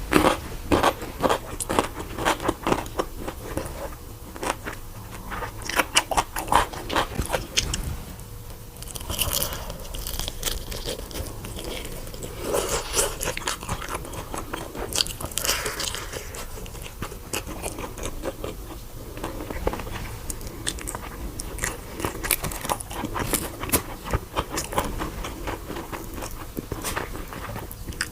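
Close-miked biting and chewing of crunchy food: dense, sharp crunches for the first several seconds, then wetter chewing broken by fresh bursts of crunching every few seconds.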